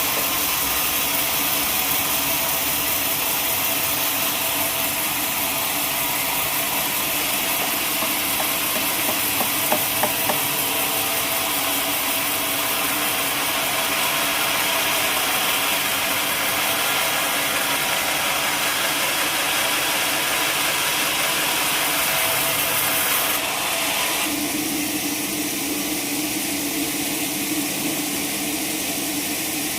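Sawmill machinery running steadily with a loud hissing noise and a few light knocks about a third of the way in. Near the end the sound changes abruptly to a lower, steadier hum.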